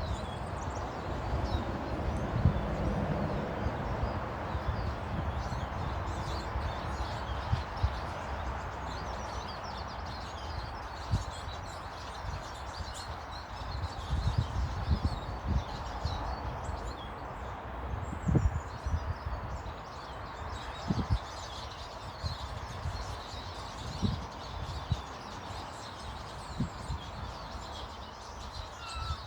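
Small birds chirping and twittering, many short high calls scattered throughout, over a steady background with a low rumble and occasional soft low thumps.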